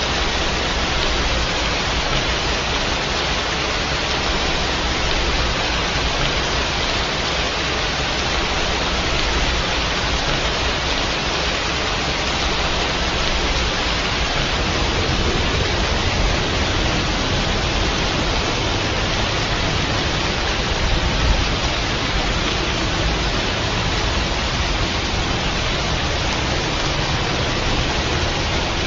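Steady heavy rain, a dense even hiss with no distinct drops or thunder.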